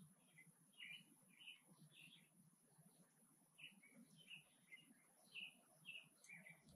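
Small birds chirping faintly: about a dozen short, separate chirps at irregular intervals.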